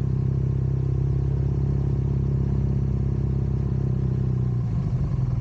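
Vehicle engine running at a steady speed, its note turning rougher and less even about four and a half seconds in.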